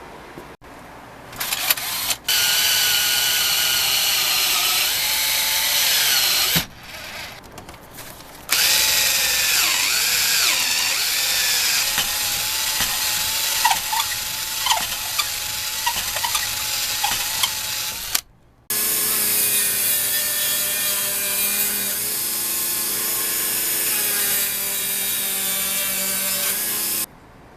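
Power tool running on a metal part in three runs separated by abrupt cuts, its whine wavering in pitch as it bears on the work in the middle run.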